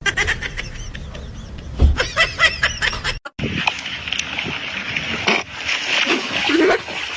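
Animal calls: a quick run of short, repeated chirping calls, cut off suddenly about three seconds in, followed by denser, continuous calling.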